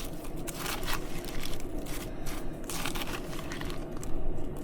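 Spoon stirring cereal, water and milk powder in a cereal cup: a run of irregular scraping, crunching strokes.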